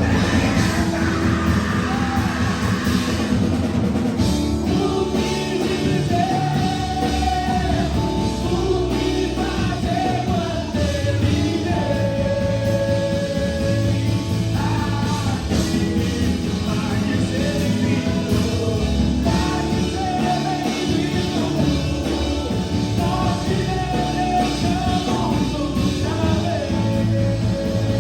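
Loud worship band music with drums and sung melody, the singer holding long wavering notes.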